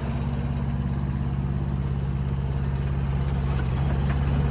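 Mini excavator's small diesel engine running steadily at idle, growing slightly louder toward the end.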